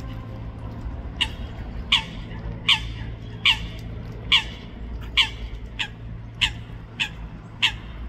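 A bird calling a short, sharp call over and over, about ten times a little under a second apart, over a steady low rumble.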